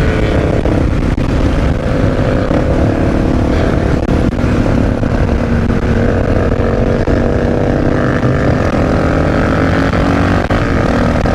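Supermoto motorcycle engine running steadily while being ridden, its pitch shifting only slightly, with a heavy rumble of wind on the microphone.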